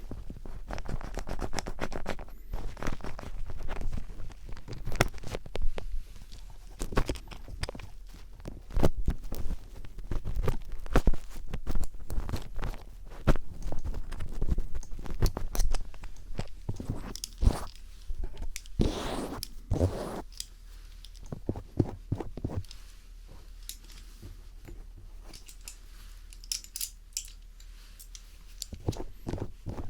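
Phillips screwdriver tip scratching and scraping in a microphone's ear for ear-cleaning ASMR, close-up: dense, irregular scratches, crackles and clicks, becoming sparser and quieter near the end.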